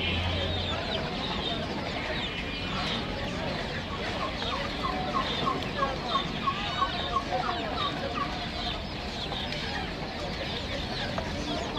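Many caged birds at a bird market calling together, a mix of overlapping short chirps and calls. In the middle comes a run of about a dozen quick, evenly spaced calls.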